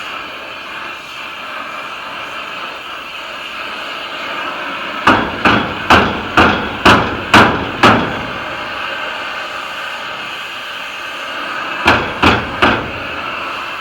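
Sharp knocks in a quick, even run of seven, about two a second, then after a pause three more, each ringing briefly, over a steady background noise.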